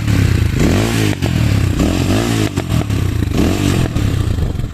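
Motorhead Scrambler 250 motorcycle on its stock exhaust, revved in three quick throttle blips. Each blip is followed by sharp popping misfires as the revs fall.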